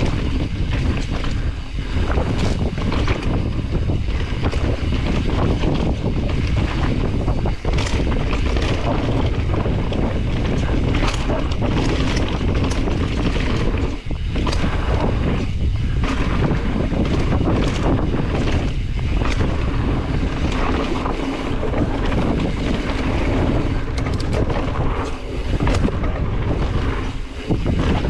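Specialized Stumpjumper EVO Comp mountain bike on a fast, rough downhill: wind noise on the microphone over the rumble of the tyres on dirt, with frequent sharp knocks and rattles as the bike hits bumps.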